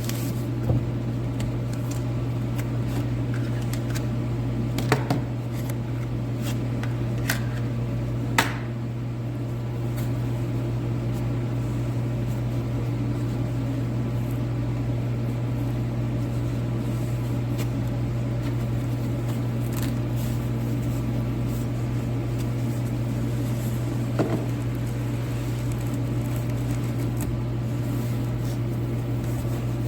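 Steady hum of an overhead heater running, with a few short clicks and knocks of packaging being handled.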